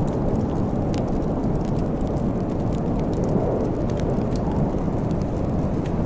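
Wood fire crackling, with scattered sharp pops, over a steady low rush of storm wind.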